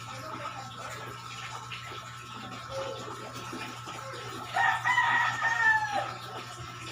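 A rooster crowing once, a pitched call of a second and a half in several parts that falls away at the end, over a steady low hum.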